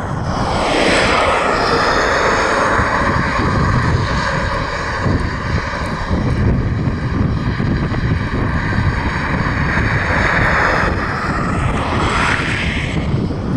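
Airliner's jet engines at takeoff power as it rolls and climbs out past the microphone, a loud steady rush that swells about a second in and again near the end.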